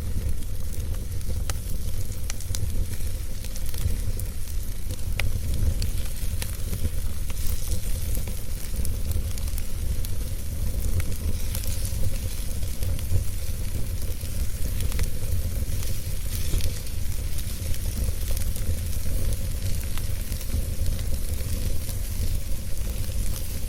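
Wood fire burning steadily, with a low rumble, a hiss and scattered crackles and pops of burning wood.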